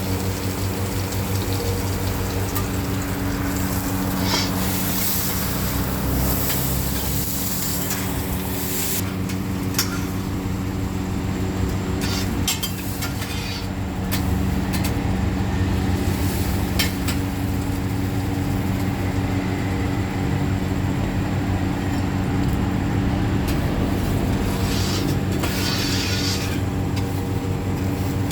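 Hoi tod (oyster and batter) frying on a hot flat pan: sizzling, with scattered clicks and scrapes of a metal spatula, over a steady low hum.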